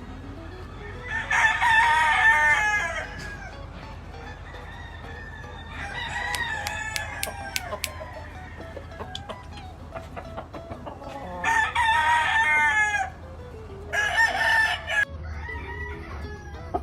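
Gamefowl roosters crowing, about four long crows in turn, one of them fainter.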